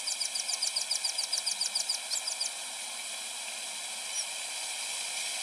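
Natural outdoor ambience with a steady high insect chorus. Over it, a rapid series of high chirps, about eight a second, runs for the first two and a half seconds and then stops.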